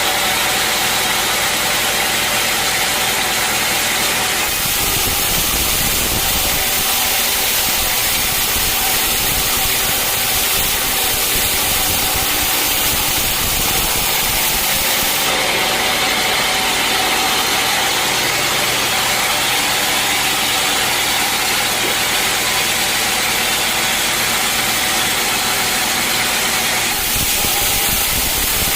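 Sawmill machinery running steadily and loudly. Its sound changes abruptly about four seconds in, again around the middle, and near the end.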